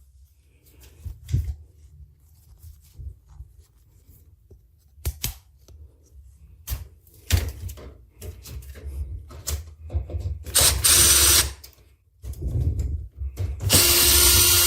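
Power screwdriver running in two short bursts of about a second each, backing out screws, between scattered clicks and knocks of parts being handled.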